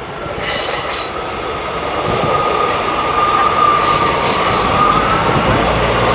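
A train passing close by, its wheels running on the rails with a sustained high squeal and brief sharper squeals of metal on metal, as if rounding the junction's curve.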